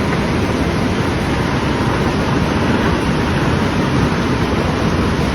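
Typhoon wind and rain making a loud, steady rushing noise that cuts off suddenly at the end.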